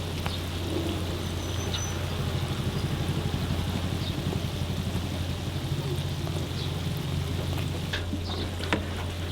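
Hot oil sizzling steadily as twisted doughnuts (kkwabaegi) deep-fry, with a steady low hum underneath.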